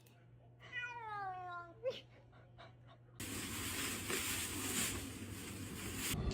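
A cat gives one long meow about a second in, falling slowly in pitch, followed by a short squeak. From about three seconds in a steady hiss of noise takes over.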